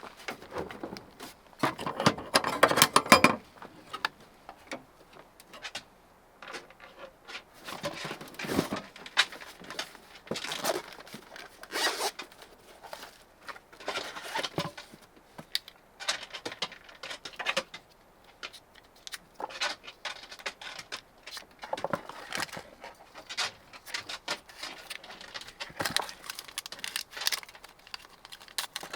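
Hands handling objects close up: irregular rustling, scraping and light clicks in short bursts, the loudest a rasping, zipper-like run about two to three seconds in.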